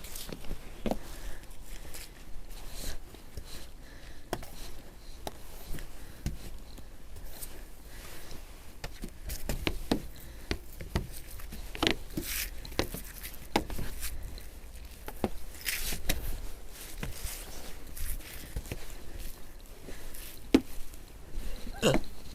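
Irregular crunching and scraping strokes in snow, with scattered knocks over a low steady rumble.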